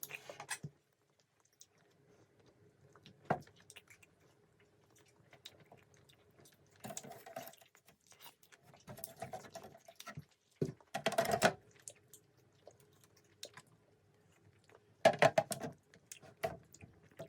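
Close-miked chewing of soft Japanese candy: irregular bursts of sticky, clicky mouth sounds separated by short pauses, the loudest about eleven and fifteen seconds in.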